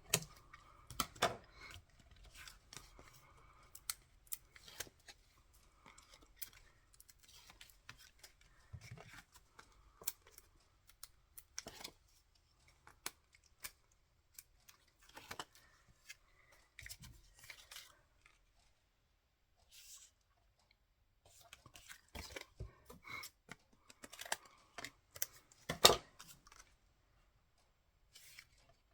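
Paper and cardstock being handled and cut by hand: an irregular run of short rustles, clicks and taps with quiet gaps, and one louder knock about 26 seconds in.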